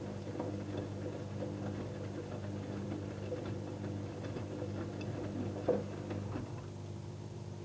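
Electrolux front-loading washing machine running: a steady motor hum with light, irregular clicks and taps as it works, and one sharper click about three-quarters of the way in.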